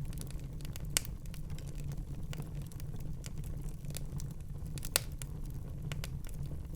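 Wood fire in a fireplace crackling, with many small irregular crackles over a steady low rumble. Two louder sharp pops come, one about a second in and one about five seconds in.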